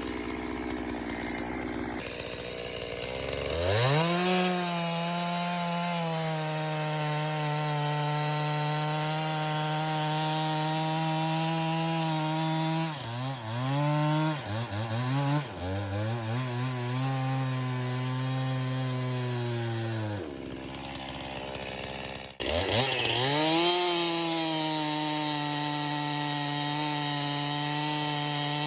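Gas chainsaw bucking a poplar log into firewood rounds: it revs up to full throttle a few seconds in and runs steadily through the cut, its pitch dipping and recovering several times as the bar loads in the wood. About two-thirds through it drops back to idle for a couple of seconds, then revs up again for the next cut.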